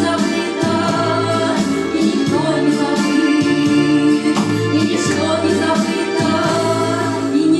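A song sung over instrumental backing with a steady bass line, the voices possibly a group or choir.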